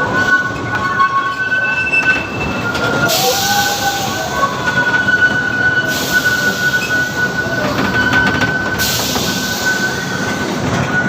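Amusement-park ride train running along its track, heard from on board: a steady rolling rumble with a high, steady wheel squeal, and two stretches of louder hiss partway through.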